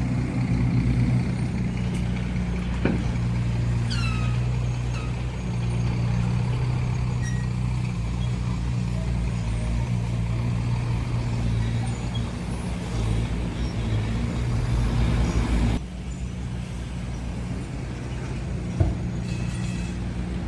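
Bulldozer's diesel engine running steadily under work, with a brief high squeal about four seconds in. The engine sound drops suddenly about three-quarters of the way through and carries on more quietly.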